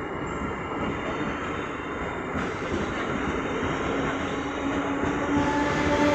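MEMU electric multiple-unit train running on the rails, a steady rumble and rattle of wheels on track. A steady hum comes in partway through and grows stronger near the end.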